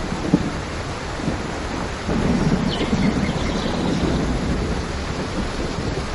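Steady rain with thunder: a low rumble swells about two seconds in and slowly fades over the next few seconds. A single sharp tap stands out just after the start.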